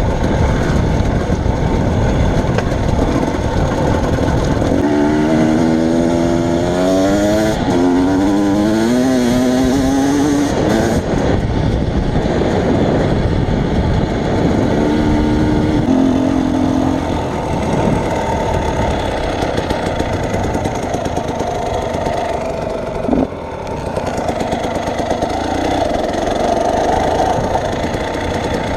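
Vehicle engine running under a steady rumble, its pitch wavering up and down for several seconds from about five seconds in.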